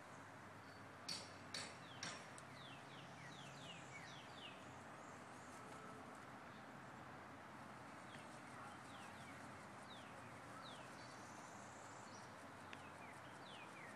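Quiet outdoor ambience with birds chirping: many short, quick falling chirps come in scattered runs. Three sharp clicks sound close together about a second in.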